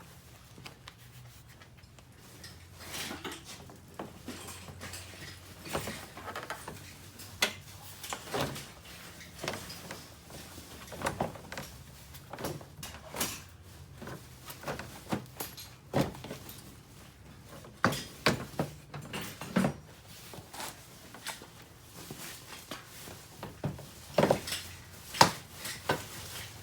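Irregular knocks, clicks and rattles of a heavy poly rear diffuser panel being handled and pushed into place under a car's rear bumper.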